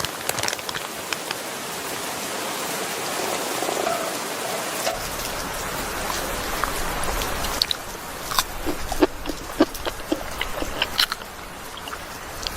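Rain falling steadily, with drops tapping sharply on a nearby surface; the taps stand out more in the second half, and a low rumble comes in about five seconds in.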